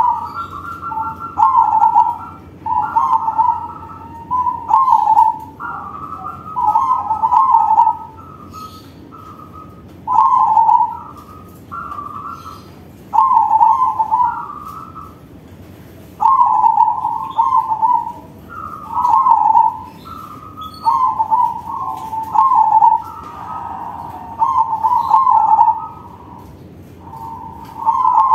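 Crossbred perkutut (zebra dove) singing its cooing song: a string of short, warbling coo phrases at about the same pitch, one every second or two, with short pauses between them.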